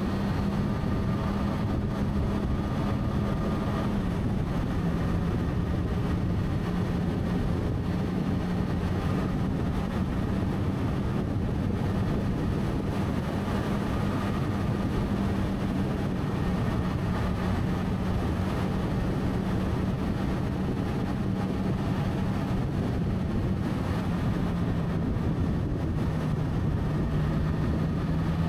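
Motorcycle engine running steadily while riding, with wind and road noise. The engine note dips a little a few seconds in and again near the end.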